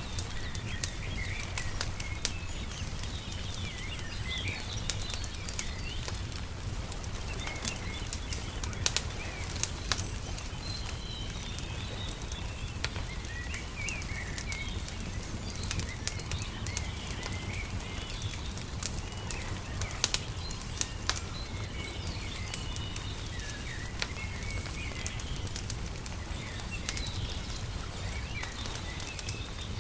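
Wood fire crackling with scattered sharp pops, while small birds chirp and twitter throughout over a steady low rumble.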